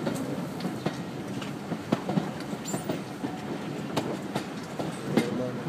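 Railway passenger coach running along the track: a steady rumble broken by irregular sharp clicks and knocks from the wheels over the rail joints.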